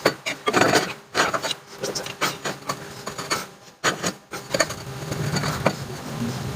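Irregular knocks, clinks and scraping of hand tools against steel suspension parts while a leaf spring is pulled down and a new shackle is fitted.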